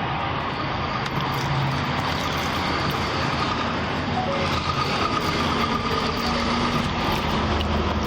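Steady motor-vehicle noise, with a low hum underneath and no sudden knocks or impacts.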